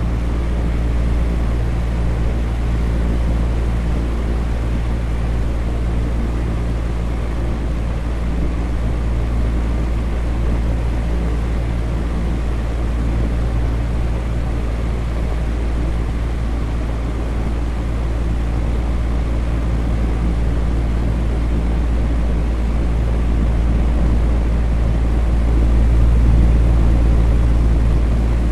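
Electric fan running steadily: a constant low hum under an even rush of moving air, with no change in speed.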